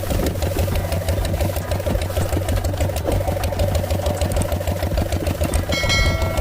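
Small motor of a mini tractor running steadily with a rapid, even clatter. A brief high-pitched tone sounds over it near the end.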